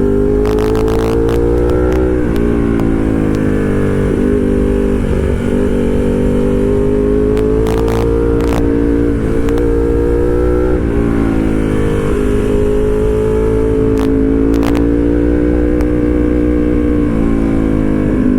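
A vehicle engine running steadily, its pitch drifting slowly up and down as engine speed changes, over a low rumble.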